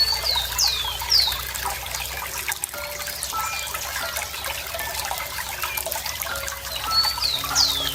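Running water trickling steadily, with small birds calling over it: a few sharp down-slurred whistles near the start and again near the end, and scattered short chirps between.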